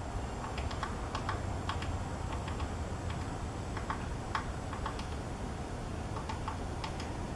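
Female downy woodpecker pecking at wood: sharp, irregular taps, one to three a second at uneven intervals, over a steady low rumble.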